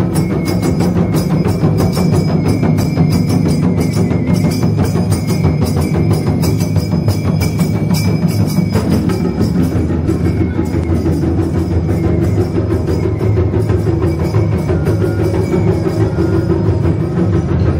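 Festival percussion music: drums and other struck percussion played in a fast, unbroken beat, with a steady held high tone above it through roughly the first half.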